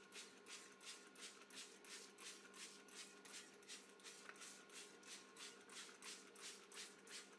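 Trigger spray bottle misting disinfectant liquid over a tray of eggs: a fast, even run of short faint hisses, about three a second.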